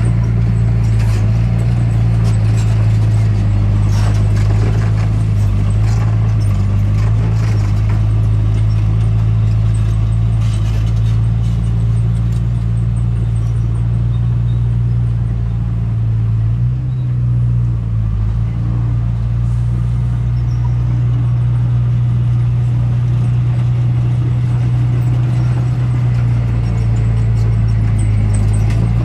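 Diesel engine of heavy earthmoving machinery running steadily with a deep, even drone, its note dipping briefly a little past halfway. Scattered sharp clanks and knocks come through, mostly in the first half.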